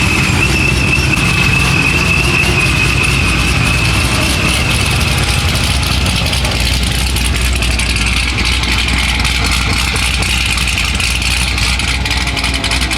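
A car engine idling with a steady high-pitched whistle over it. The whistle fades out about halfway through, leaving the idle.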